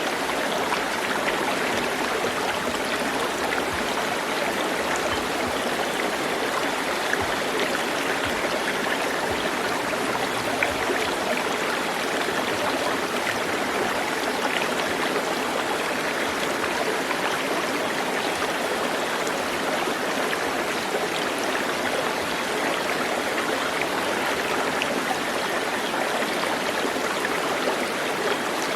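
A stream of running water flowing steadily.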